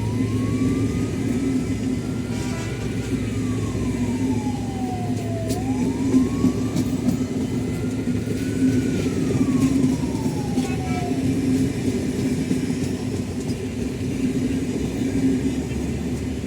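Steady low engine rumble with a constant hum. Over it, a siren wails up and then down twice, slowly, fading out about two-thirds of the way through.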